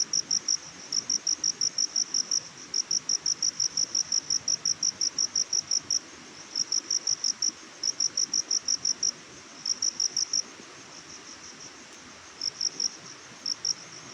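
A cricket chirping in fast, even pulses, about six or seven a second, in long trains broken by short pauses and a longer pause near the end. A faint steady hiss of forest ambience lies underneath.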